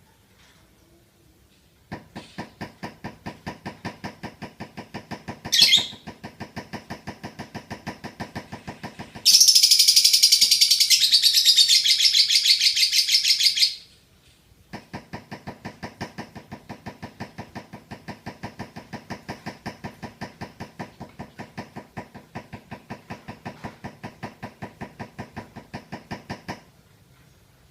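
Lovebird ngekek, the long chattering song: a rapid, even series of calls about four a second that runs on for many seconds. A much louder, shriller chatter cuts in for about four seconds in the middle, then the even calling resumes after a short pause.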